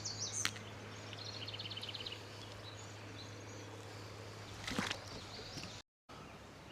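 Songbirds calling, with a quick trill of chirps about a second in, over a steady low hum and the hiss of an outdoor river scene. A knock comes early and a louder one near the end.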